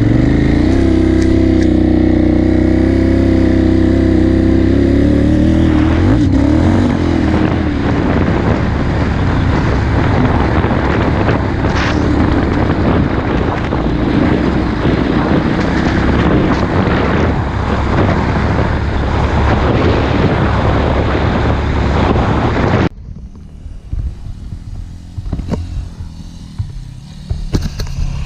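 KTM 990 Adventure's LC8 V-twin engine running steadily, then under way with rough engine and wind noise; about 23 seconds in the sound drops off suddenly to a much quieter, uneven background.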